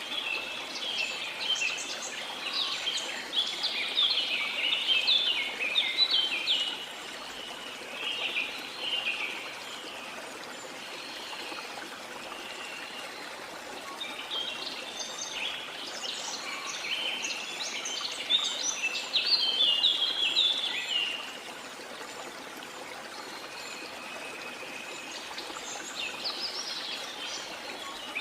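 Songbirds twittering in quick, busy phrases over the steady rush of falling water. The birdsong comes in long bursts at the start, again from about 14 to 21 seconds and near the end, thinning to the odd call in between.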